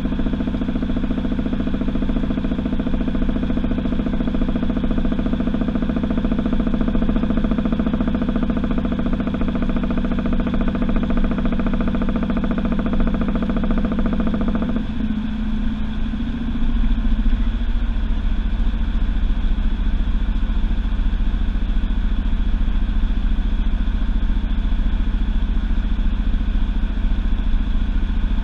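Washing machine running with a steady motor hum. About halfway the higher part of the hum cuts out, and a second or two later a deeper, louder rumble takes over.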